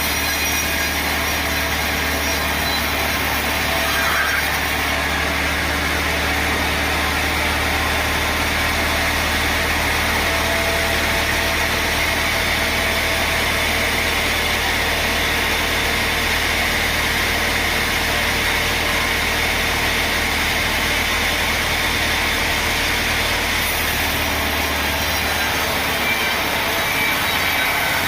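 Sawmill machinery running steadily, with an engine-driven saw cutting wood. A low hum drops out near the end.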